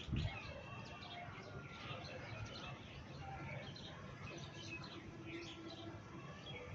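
Several small birds chirping and calling in quick, overlapping short notes, with a brief low thump right at the start.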